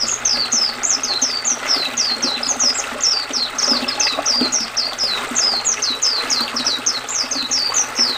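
White-eye (pleci) singing a fast, unbroken run of high, down-slurred chirps, about five a second, over the steady rush of flowing river water.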